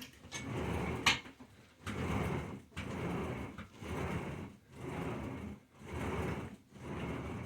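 Total Gym incline-bench carriage rolling up and down its rails in steady repetitions, about one stroke a second, with a sharp click about a second in.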